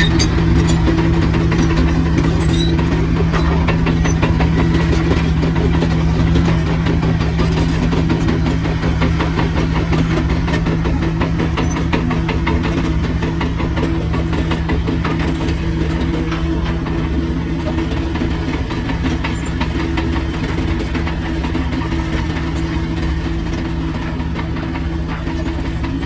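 Heavy construction machine's diesel engine running steadily at a constant pitch, easing slightly in level toward the end.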